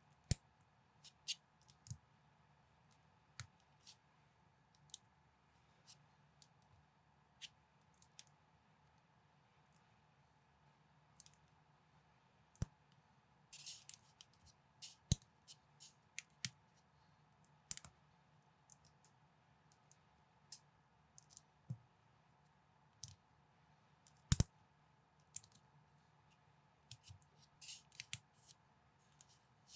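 Plastic building bricks being handled and pressed together: irregular sharp clicks and snaps, with a couple of short clusters of rattling clicks and one louder snap about 24 seconds in.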